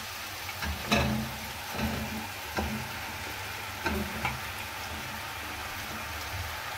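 Raw chicken pieces being tipped into a kadhai of onions frying in hot oil: a steady sizzle, with a few soft thumps and knocks as the pieces land, the loudest about a second in, then an even sizzle.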